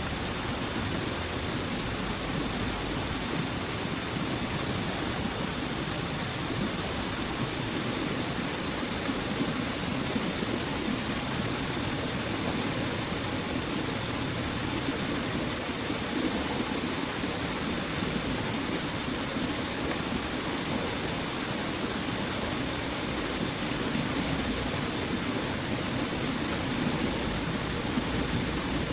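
Insects chirring in a fast, steady pulsed trill that grows louder about eight seconds in, over a constant even hiss.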